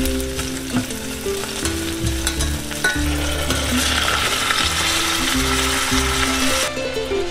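Sliced red onions sizzling as they fry in hot oil in a pan, stirred with a spatula that scrapes and clicks against it. The sizzle cuts off abruptly near the end.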